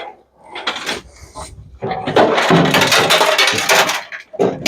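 Clattering of loose metal scrap parts being handled: a few sharp knocks, then about two seconds of dense rattling and scraping.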